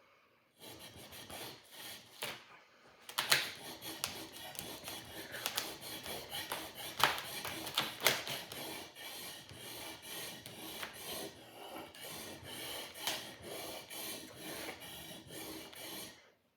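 Sword blade being sharpened: a long run of rough rasping strokes of metal against the sharpener, with a short pause about two and a half seconds in, stopping abruptly near the end.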